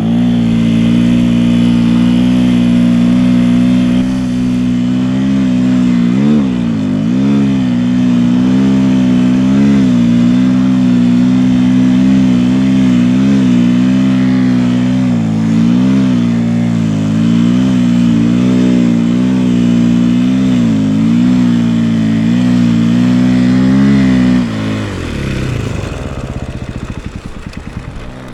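Single-cylinder 450cc four-stroke dirt-bike engine of a snowbike running hard under load, its pitch rising and falling with the throttle. About 25 seconds in the steady engine note falls away, leaving a rougher, uneven rumble.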